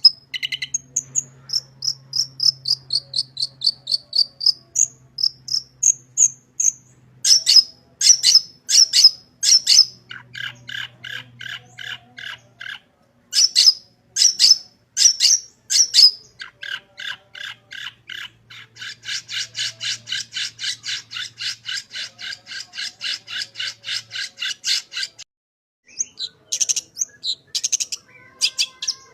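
Long-tailed shrike (cendet) singing a varied, mimicry-filled song: high whistled and chirped notes, then long runs of fast, evenly repeated notes, pausing briefly near the end before starting again.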